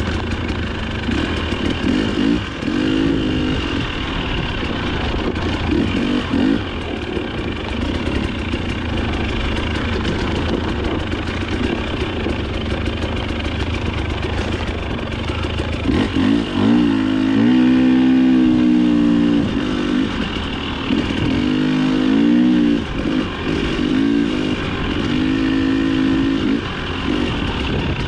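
Dirt bike engine running under changing throttle, its revs rising and falling again and again, with the revving swings strongest in the second half.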